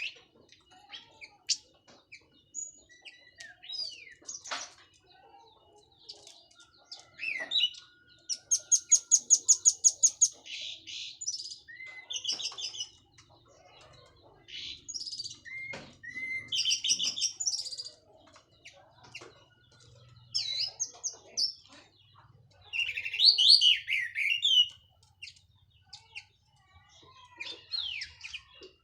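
Orange-headed thrush (anis merah) singing a long, varied song of clear whistled phrases, imitations and trills, including a fast run of about a dozen repeated notes around eight seconds in. The bird is freshly out of its moult and in full, open voice.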